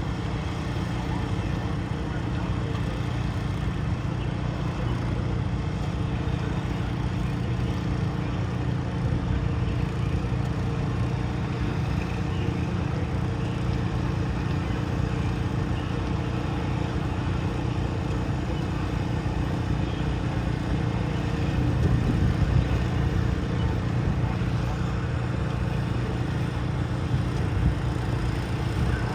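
Garden tractor engine running steadily under load, a continuous low drone that swells briefly about three quarters of the way through.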